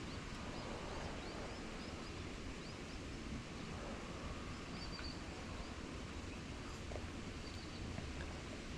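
Steady outdoor ambient noise, with many short bird chirps scattered through it.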